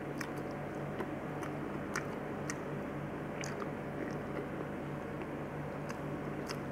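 Close-up chewing of a mouthful of rice, macaroni and lentils eaten by hand, with soft wet mouth clicks scattered throughout over a steady low hum.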